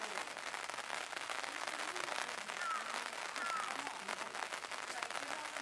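Rain pattering steadily close to the microphone, a dense crackle of drops, with faint voices of people in the background.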